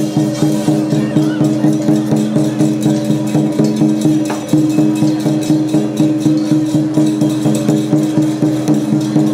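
Lion-dance troupe percussion music, drum and gongs struck in a steady, even beat of about three strikes a second, the gongs ringing on between strikes.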